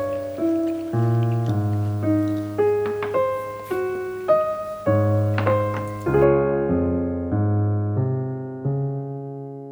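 Background solo piano music: a slow melody of single notes over low bass notes, ending about six seconds in on a held chord that slowly fades away.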